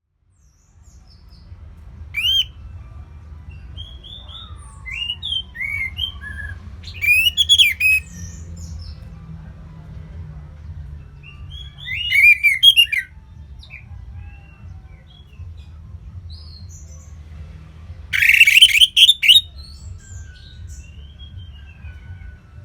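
Orange-headed thrush singing loose, relaxed 'ngeplong' song, mixed with the song of other songbirds. The song comes in loud bursts of quick, varied, sliding notes about 2, 7, 12 and 18 seconds in, with scattered softer notes between them, over a steady low hum.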